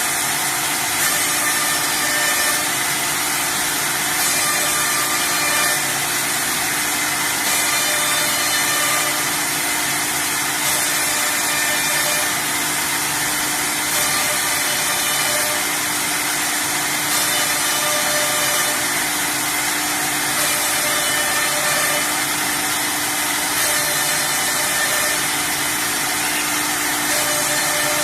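Four-head CNC router running and cutting, its spindles giving a steady machining noise with whining tones that come and go every few seconds.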